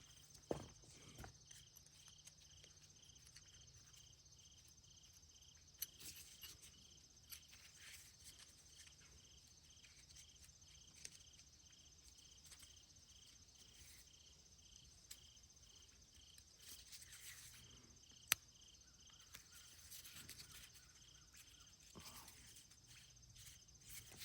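Faint, quiet background with a high-pitched chirp repeating evenly about twice a second, and occasional light clicks and knocks, one sharper knock about 18 seconds in.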